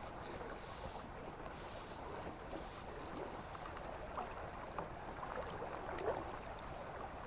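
River water running, a steady rush with small scattered gurgles.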